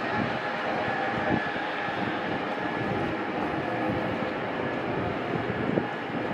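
Steady city street ambience: a continuous rumble of traffic, with faint steady tones and a few soft low knocks.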